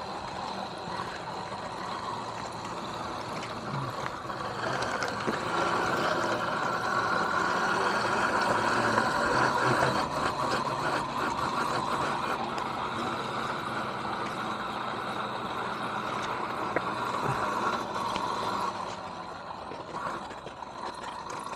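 Electric dirt bike being ridden: a steady high motor whine over a rushing noise that swells for a few seconds in the middle and eases off near the end.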